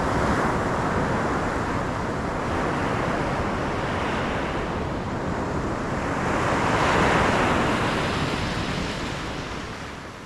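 Ocean waves washing onto a shore, a continuous surf with two larger surges, one at the start and a stronger one about seven seconds in. The sound fades out near the end.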